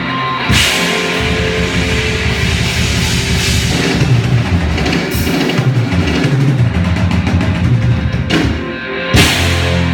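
Live rock band playing loudly: electric guitar and drum kit, with cymbal crashes about half a second in, around five seconds, and again just after nine seconds.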